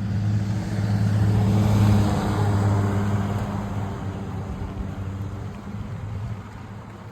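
A motor vehicle passing close by: a steady engine hum with tyre and road noise that swells to its loudest about two seconds in, then slowly fades away.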